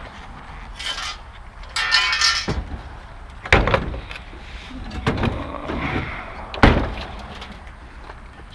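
Scrap being handled and set down: a string of heavy clanks and thumps with a scraping rattle about two seconds in, the loudest thumps about three and a half seconds in and near seven seconds.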